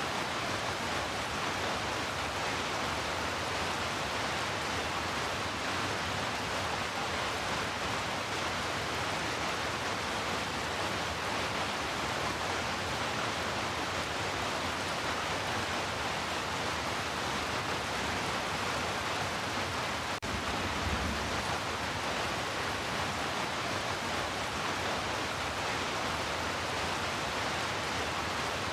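Heavy rain falling steadily as an even hiss, with a short low thump about two-thirds of the way through.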